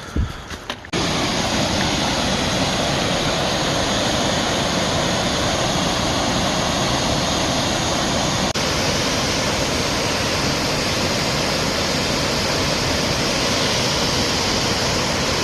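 Waterfall rushing with a steady roar that cuts in suddenly about a second in.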